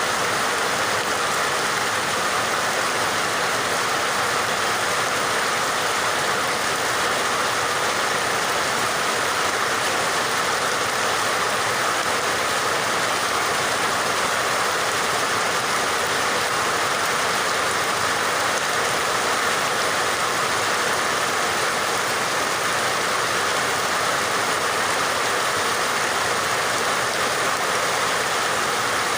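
Steady, continuous rainfall, an even hiss of falling rain that holds unchanged throughout.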